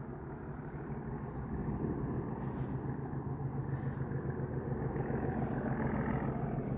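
Approaching Class 37 diesel locomotives, their English Electric V12 engines a steady low drone that grows slowly louder.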